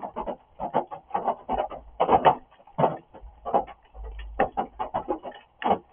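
Rain drumming: heavy drops striking a hard surface in an irregular patter of sharp hits, several a second, some much louder than others.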